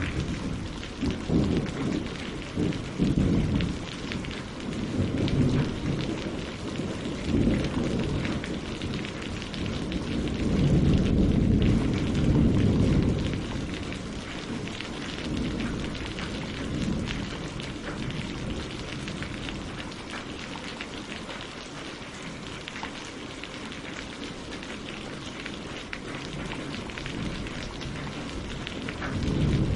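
Steady rain falling on leaves and lake water, a dense hiss of drops, with low rolling rumbles of thunder that swell and fade, the biggest about eleven seconds in.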